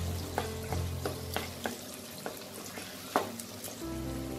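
Boiled taro greens sizzling on a high flame in a nonstick wok as their water cooks off, while a spatula stirs and scrapes through them. The scrapes and knocks come about every half second, the loudest a little after three seconds in.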